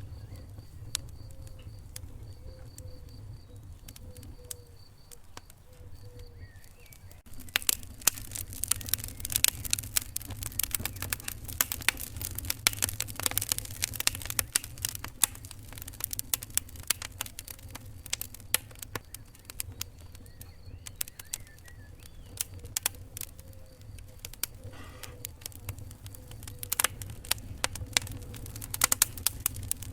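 Wood fire crackling in a fireplace: a steady low rumble of flames with many sharp pops and snaps, which grow dense after several seconds, ease off in the middle and pick up again near the end.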